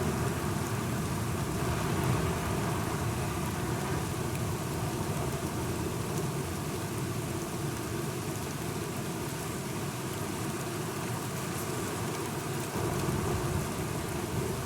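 Steady rain falling, with a continuous low rumble of thunder underneath; it gets a little louder about thirteen seconds in.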